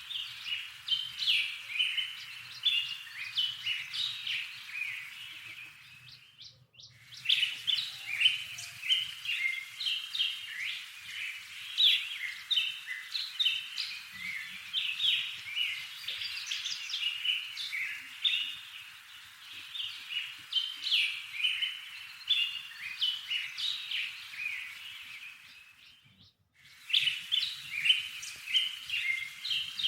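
Small songbirds chirping and twittering in a dense run of short, quick notes, broken by two brief silences, about seven seconds in and again near the end.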